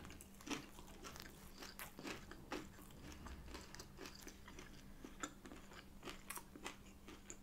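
A person biting into and chewing a breaded plant-based no-chicken burger in a soft bun: faint, irregular crunches and wet mouth clicks.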